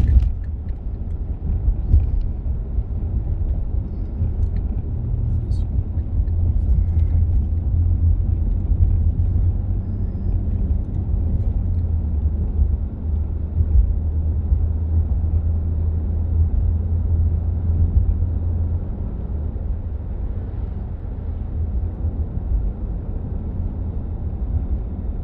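Car cabin noise while driving: a steady low rumble of engine and road, with the air-conditioning fan running on its lowest setting. The rumble swells for a stretch in the middle and then eases.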